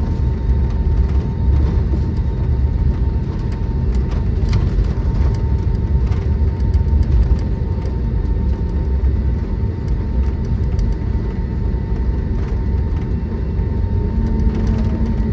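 Cabin noise inside an Airbus A320neo: a steady low rumble of its CFM LEAP-1A jet engines at low power, with a steady whine. A new low tone joins near the end.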